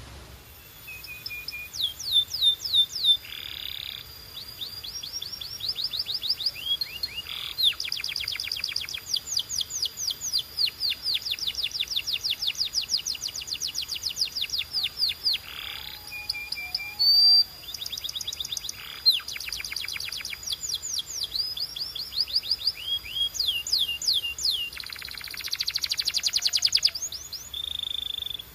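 Canary singing a long song of fast trills: runs of high, downward-sweeping notes repeated about ten times a second, changing pace from one run to the next, with a few short, harsher buzzy rolls in between.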